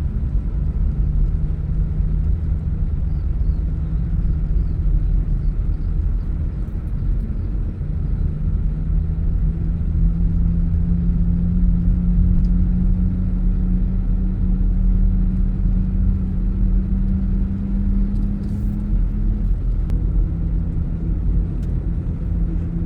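Car engine and road noise heard from inside the cabin while driving: a steady low rumble with an engine hum that shifts in pitch a couple of times.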